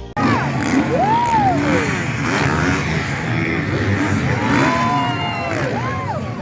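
Motocross dirt bike engines revving up and falling back several times, the pitch swooping up and down over a steady din of running engines.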